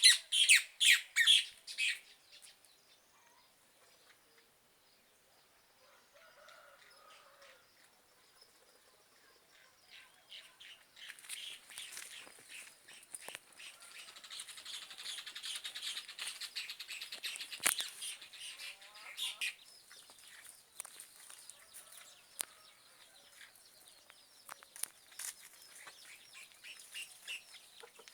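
Casaca-de-couro (rufous cacholote) calling in loud runs of rapid, harsh repeated notes: a burst at the start, a lull of several seconds, then a long chattering run and scattered calls toward the end.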